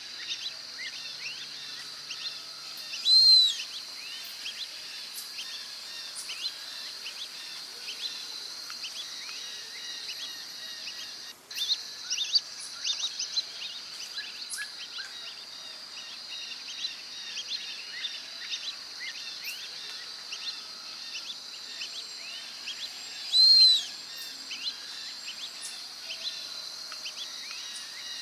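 Brazilian teal giving two loud, short, high whistled calls, one a few seconds in and one near the end, over a steady high drone and many small chirps.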